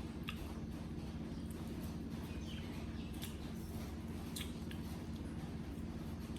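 A baby monkey gives a short, faint squeak about halfway through, over a steady low hum. A few light clicks sound in between.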